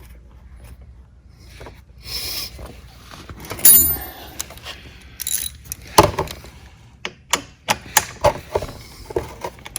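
Hand tools and a 10 mm bolt being worked on the plastic body of an electric ATV: scattered clicks and knocks, a loud knock about six seconds in, and a quicker run of sharp clicks near the end.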